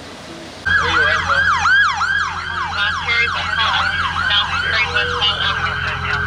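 Several police car sirens sounding at once, starting abruptly under a second in as a fast, overlapping yelp of repeated falling sweeps, over a steady low hum.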